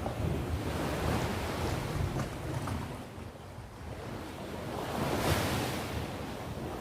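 Sea waves on the shore: a steady low rumble of surf, with a wave surging and washing in about five seconds in.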